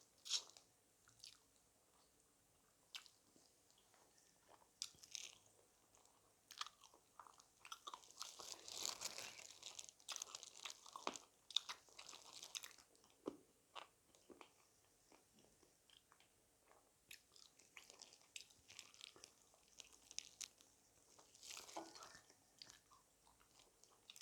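A person biting and chewing crisp fried chicken: many short, sharp crunches with quieter chewing between them, busiest in the middle.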